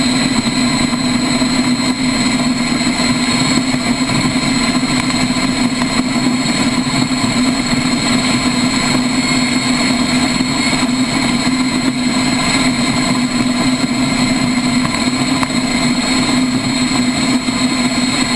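Motorcycle engine running hard at a steady, unchanging pitch, with no revving up or down.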